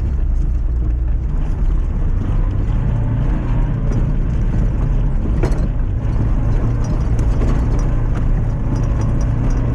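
Lifted Mazda MX-5's four-cylinder engine running steadily as the car drives a trial section, with a sharp knock about five and a half seconds in and small clicks and rattles toward the end.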